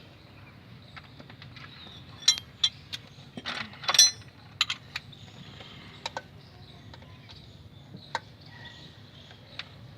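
Irregular metallic clinks and clicks of hand tools and bolts knocking against metal engine parts during flywheel removal. The loudest cluster comes about two to five seconds in, with a few sparser clicks later.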